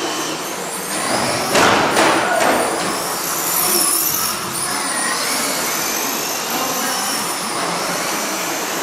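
Radio-controlled stock trucks racing around the track, their motors whining high and rising and falling in pitch as they pass. Two sharp knocks come about one and a half to two seconds in.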